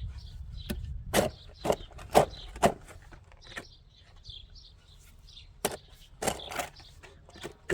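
A run of sharp knocks, about two a second for the first three seconds, then a few scattered ones later, with faint high chirps between them.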